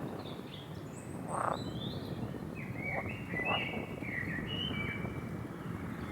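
Wild birds chirping and whistling in short, varied calls over a steady low rumbling noise.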